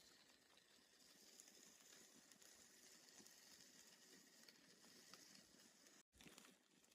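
Near silence: faint, steady background hiss that cuts out for an instant about six seconds in.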